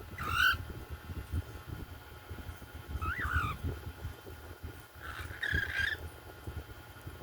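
Young hand-fed cockatiels calling: three short, squawky calls a few seconds apart, the last one the longest, over a low rumbling background.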